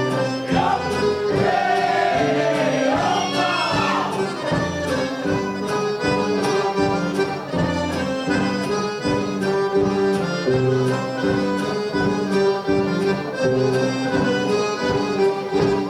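Accordion-led traditional Serbian folk music with a steady beat. About a second in, a voice calls out, its pitch sliding up and down.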